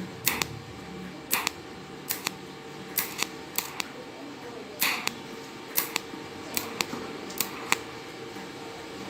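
Welder striking a string of short, sharp arc bursts at irregular intervals while tacking a patch onto a stainless steel water tank, over a faint steady hum.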